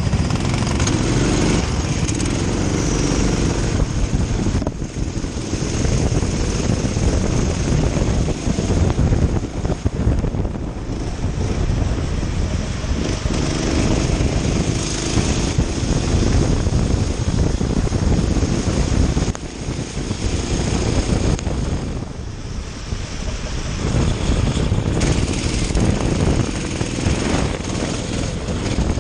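Kart engine running hard on a lap, its revs rising and falling through the corners, easing off noticeably about two-thirds of the way through. Wind and track noise are mixed in with the engine.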